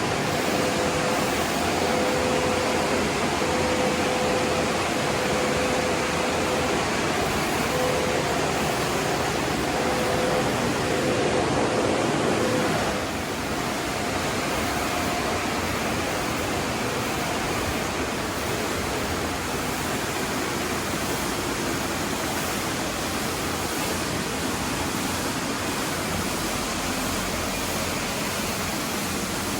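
Tunnel car wash equipment running: a steady rushing noise from water spray and air blowers. A steady hum runs beneath it until about thirteen seconds in, when it stops and the rushing drops slightly in level.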